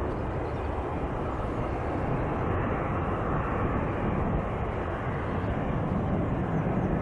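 Turboprop airliner's engines running with a steady rushing drone.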